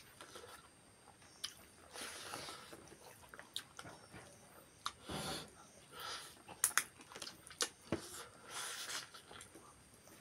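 Close-up chewing and mouth sounds of people eating rice and boiled beef leg by hand: irregular wet clicks and smacks with short bursts of chewing, a few sharper clicks coming in a cluster a little past the middle.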